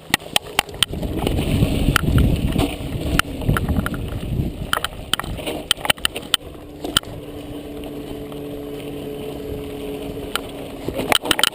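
Mountain bike rattling and clacking over a rough trail, with many sharp knocks and a heavy rush of wind and tyre noise. About halfway through, the rush eases and a steady humming buzz holds for a few seconds.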